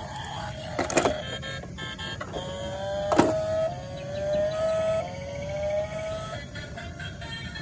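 A small electric motor whining, its pitch climbing in several runs, with a couple of sharp clicks, one about a second in and one near the middle.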